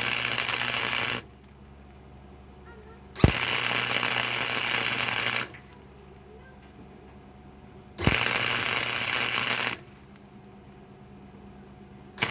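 Wire-feed welder laying short stitch welds on thin floor-pan sheet metal: a crackling hiss in bursts of about two seconds, with pauses of two to three seconds between. One burst ends about a second in, two more follow, and another starts at the very end.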